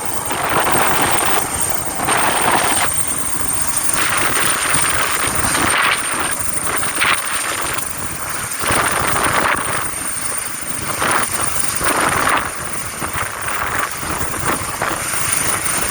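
Firefighting helicopter hovering low, its rotor and engine running steadily with repeated surges of rushing noise.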